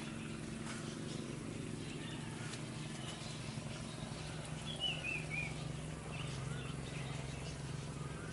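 Small birds chirping over a steady low hum, with a quick run of four or five falling chirps about halfway through.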